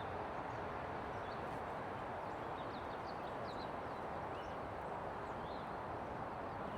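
Creek water rushing steadily, with short high bird chirps scattered through.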